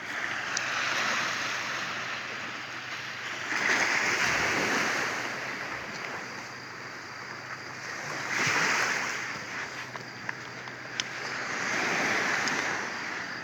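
Sea waves washing in, the surge swelling and fading about every four seconds, with some wind on the microphone.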